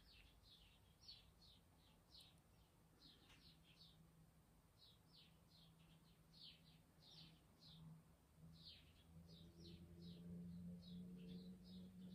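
Faint bird chirping: a string of short, falling chirps repeated over and over. A faint low hum joins about nine seconds in.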